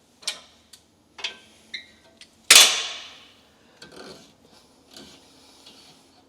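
Metal tools and parts clinking: a few sharp clicks with a light metallic ring, then one loud ringing clank about two and a half seconds in, followed by softer clinks and rattling.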